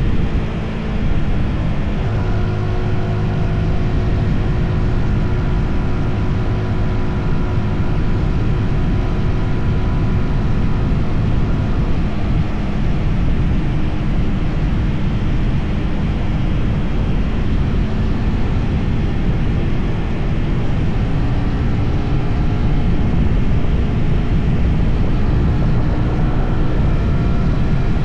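Motorcycle engine running steadily under way, its pitch drifting slowly up and down with speed, under heavy wind rush.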